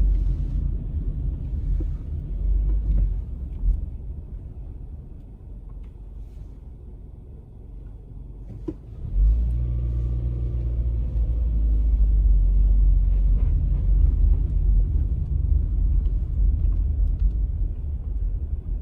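A loud, low rumble that fades about four seconds in and swells back strongly around nine seconds in.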